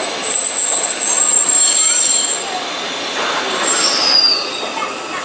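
Eizan Railway train wheels squealing against the rails over running rumble, heard from inside the car. A thin high squeal holds for about two seconds, and a second squeal slides downward in pitch about four seconds in.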